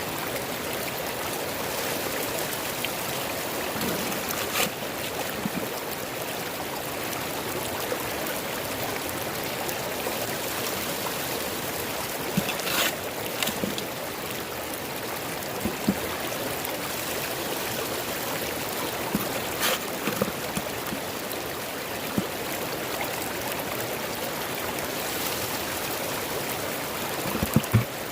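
Shallow river running steadily over rocks, with a few scattered sharp clicks and knocks over the top.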